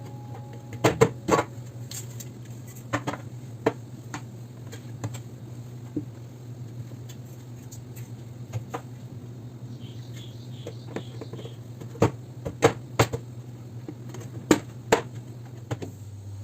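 Scattered light clicks and knocks of kitchen containers and utensils being handled, with a few sharper knocks about a second in and again later on, over a steady low hum.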